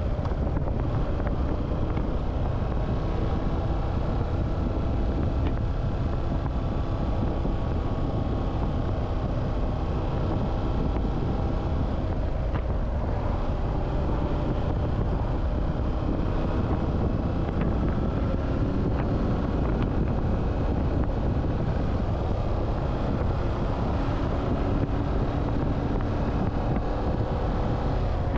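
Motorcycle engine running while riding, its pitch drifting slowly up and down with speed, under a steady rumble of wind on the microphone.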